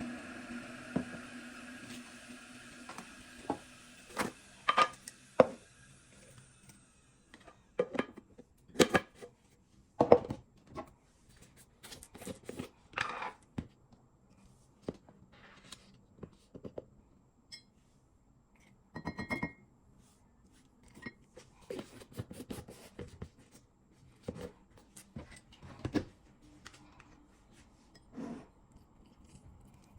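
Kitchen clatter: scattered sharp knocks and clinks of dishes and utensils being handled. A steady hum sounds at first and fades out over the first few seconds.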